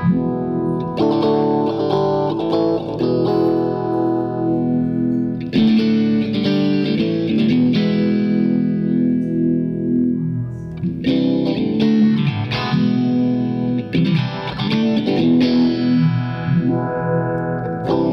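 Electric guitar chords played through a Retrohead Cosmic Phaser pedal, each chord left to ring before the next is struck.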